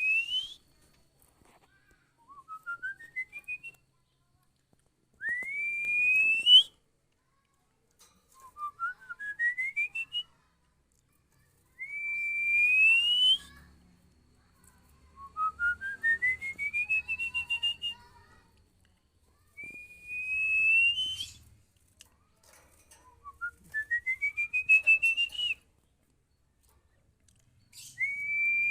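Female oriental magpie-robin (kacer) calls. A long whistle sliding upward alternates with a quick run of short notes climbing in pitch, the pair repeating regularly every few seconds.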